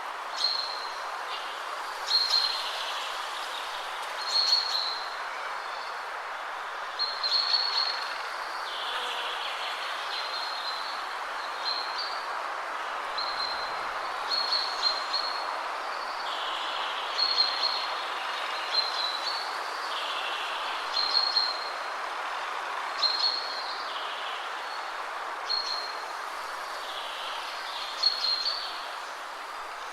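Wind blowing steadily through trees, a constant rushing hiss. Over it, a songbird repeats short, high chirping phrases every second or two.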